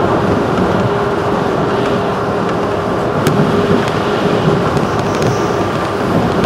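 JR 211-series electric train running at speed, heard from inside the passenger car: a steady rumble of wheels on rail with a constant hum and a few sharp clicks.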